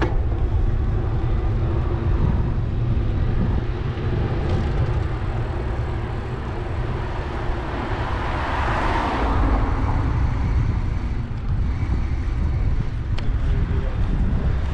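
Steady low rumble of wind and road noise on a bicycle-mounted microphone while riding, with a car passing about halfway through, its tyre noise swelling and then fading.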